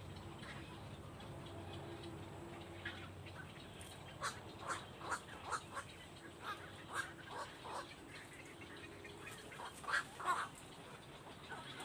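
A bird calling in a quick series of about fifteen short calls, the loudest two near the end.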